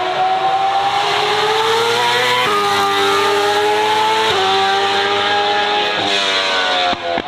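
High-revving car engine under hard acceleration, its note climbing steadily and then changing abruptly at gear changes about two and a half, four and six seconds in.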